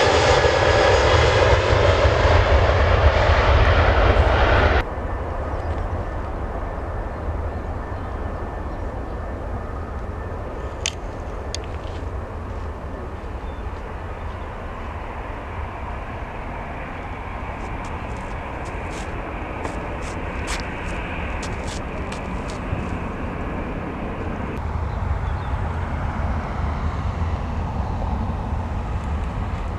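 Jet airliner engines running loud at close range, cutting off suddenly about five seconds in to a quieter, steady rumble of more distant aircraft engine noise.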